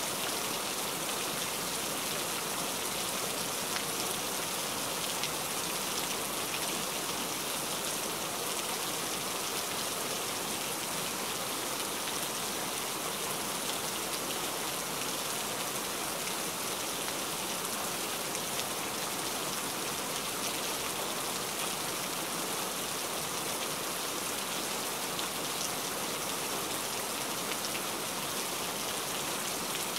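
Heavy rain falling steadily, an even hiss flecked with the ticks of single drops.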